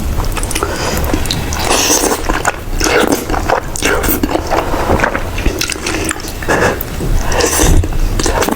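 Close-miked eating: biting into and chewing food, with many irregular sharp crunches.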